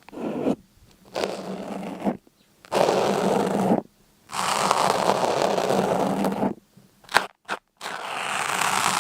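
A series of crunchy scraping strokes, each lasting about one to two seconds with short pauses between them, and a few sharp clicks near the end.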